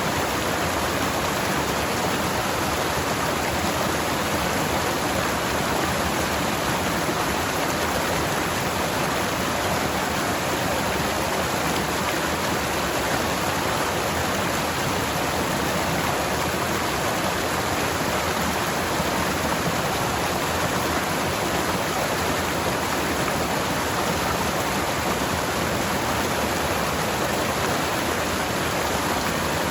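Forest stream: water rushing and splashing over rocks, a steady, even rush with no breaks.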